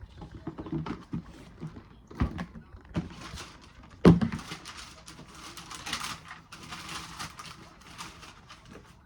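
Sneakers and their cardboard shoebox being handled: a few knocks, the loudest about four seconds in, then several seconds of crinkly rustling like packing paper.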